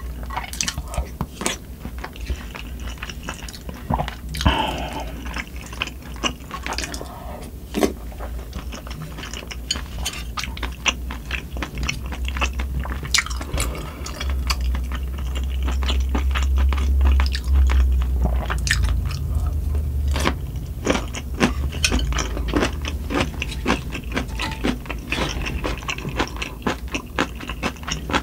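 Close-miked chewing of spicy sundae gukbap (Korean pork and blood-sausage soup), with frequent short clicks of the spoon and chopsticks against the pan and bowl. Under it runs a steady low hum from wind and rain, louder for a few seconds in the middle.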